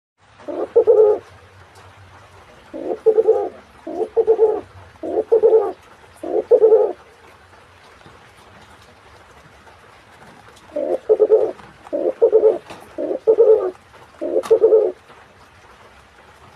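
Spotted dove × domestic pigeon hybrid cooing: five coos in a row, a pause of about four seconds, then a second run of four coos.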